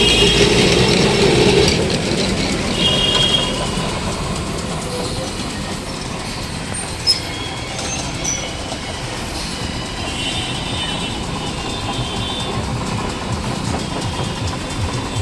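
Kolkata electric tram running along its rails, a steady rumbling run with brief high wheel squeals now and then. It is louder for the first two seconds and then settles.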